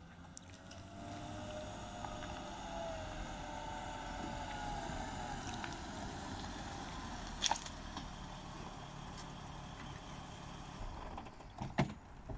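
Mercedes-Benz SLK 320's 3.2 V6 engine running as the convertible drives up slowly and pulls to a stop, its note rising and falling. A sharp click comes about halfway and a couple more near the end.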